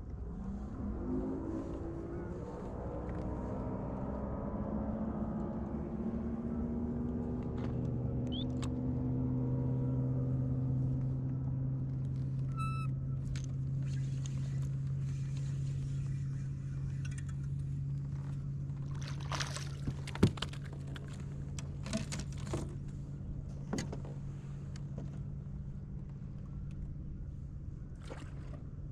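A boat motor spins up over the first couple of seconds, then runs at a steady pitch with a low hum. A few sharp clicks and knocks come in the second half.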